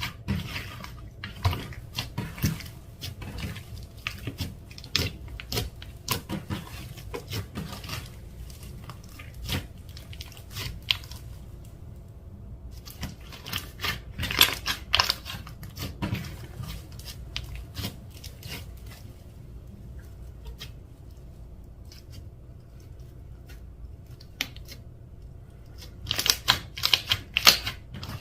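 Clear slime being worked by hand, giving irregular sticky clicks and pops. They come in busy spells for the first several seconds, again about halfway and near the end, with sparser stretches between.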